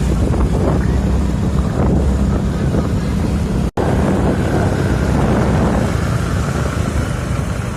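Wind buffeting the microphone over the low, steady running of a motorcycle on the move. The sound cuts out for an instant a little under four seconds in.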